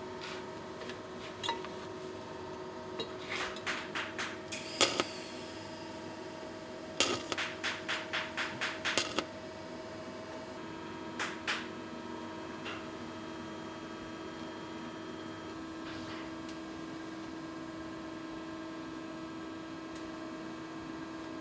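Hammer tapping on sheet metal in short runs of quick blows, the fastest about four a second, over a steady workshop hum.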